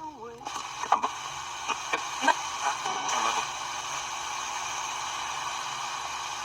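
Sony WM-GX202's built-in radio tuned off-station: steady hiss of static, with a few clicks and brief snatches of a signal in the first few seconds as the tuning passes through.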